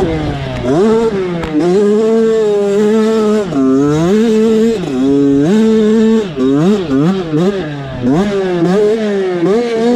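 A motocross dirt bike engine revving hard, its pitch climbing, holding and dropping again and again as the rider works the throttle and shifts, with a run of quick throttle blips about two-thirds of the way through.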